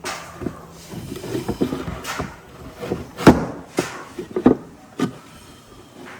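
Irregular knocks and clatter of wood and tools being handled on a workbench, with the sharpest knocks about three and a half seconds in.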